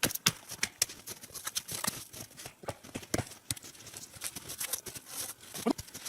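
Irregular crunching and knocking, several a second, of someone moving about in snow and handling logs and branches.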